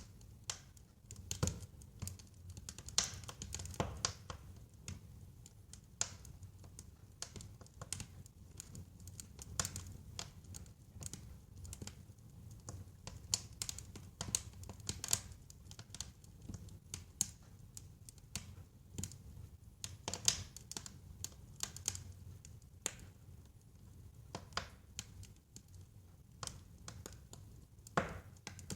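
Wood fire burning in a fireplace: a steady stream of irregular crackles and sharp pops over a low rumble of the flames.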